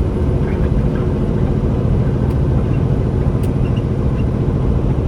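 Loaded semi truck's engine and road noise, a steady low drone while cruising.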